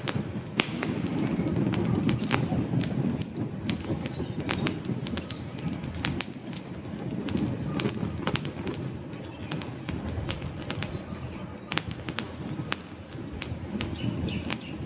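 Wood campfire crackling: frequent sharp pops and snaps over a low, steady rush of burning flames.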